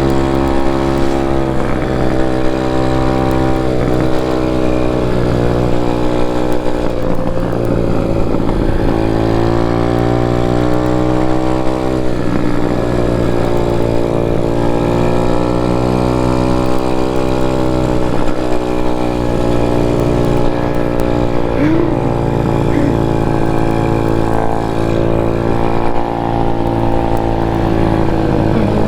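Apollo pit bike's small single-cylinder engine running at speed, its pitch rising and falling with the throttle and dropping sharply and climbing again several times as it shifts gears.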